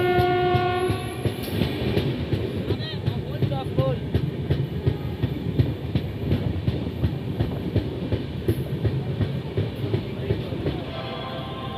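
Indian Railways express train running at speed, the wheels and coach rattling in a steady clickety-clack, opening with a short horn blast about a second long.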